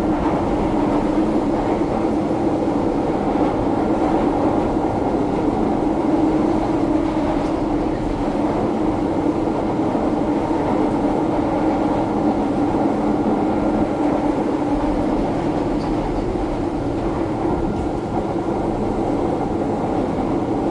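Seoul Subway Line 2 train running over the Jamsil railway bridge: a steady, even rumble of wheels on rail with no rise or fall.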